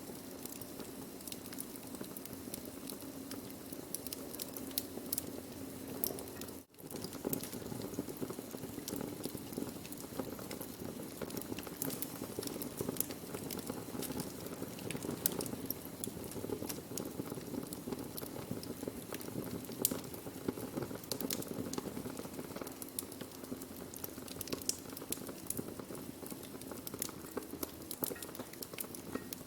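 Burning wood crackling and popping: irregular sharp snaps over a steady low hiss of the fire, with a momentary dropout about seven seconds in.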